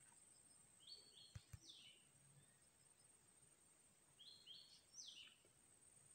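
A bird calling twice, faintly, about three and a half seconds apart: each call is a short, high phrase of two quick notes followed by a longer falling note.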